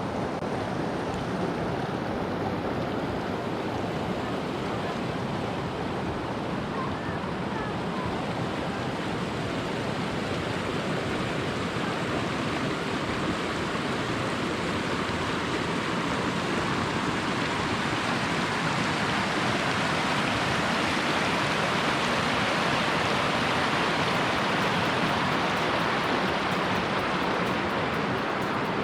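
Steady rushing of flowing water, like a mountain stream, getting a little brighter and hissier in the second half.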